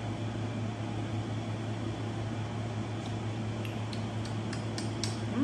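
Steady low hum with a faint hiss, the room's background noise, with a few faint ticks.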